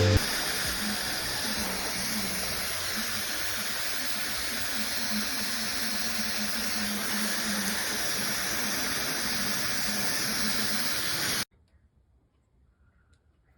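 Llano 1400 W brushless-motor hair dryer running: a steady rush of air over a low, wavering hum, cutting off suddenly about eleven seconds in.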